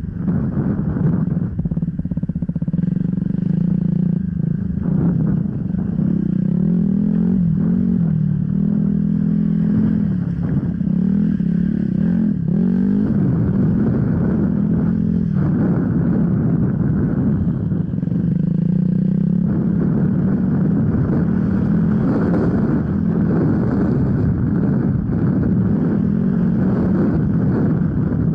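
Off-road enduro motorcycle engine running under way, its note rising and falling with the throttle.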